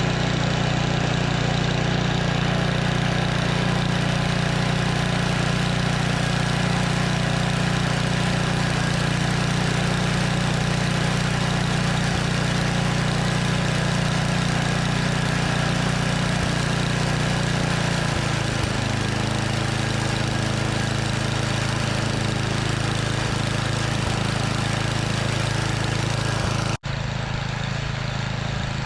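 Snowblower's small gas engine running steadily, its pitch settling a little lower about two-thirds of the way through.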